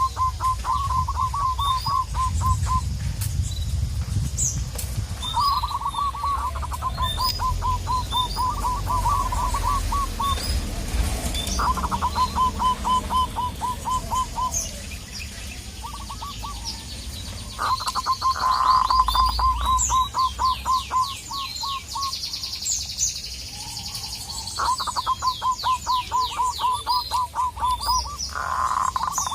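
Zebra dove (perkutut) calling: repeated runs of fast, staccato cooing notes, each run lasting a few seconds, about seven runs in all. Other small birds chirp high above it, over a low rumble.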